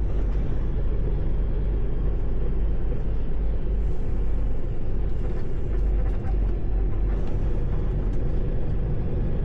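A semi-truck's diesel engine running through a slow turn, heard from inside the cab as a steady low rumble.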